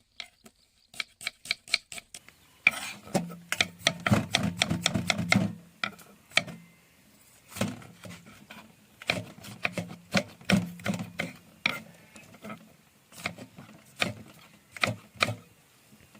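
A knife chopping onions, a run of short sharp chops at an uneven pace that comes in bunches, with a low hum in two stretches.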